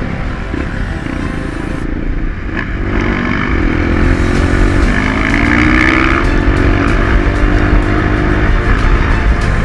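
Dirt bike engine running with a heavy low rumble. From about three seconds in, its pitch climbs gradually as the bike picks up speed, then drops off near the end.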